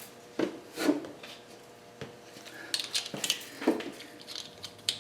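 Metal hand tools clinking and rubbing: scattered light knocks and rattles of sockets and a wrench being handled, with a cluster of clinks around the middle.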